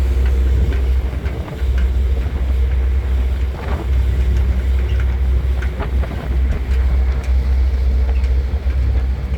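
Wind buffeting the microphone on a ferry, over the steady drone of the ferry's engines.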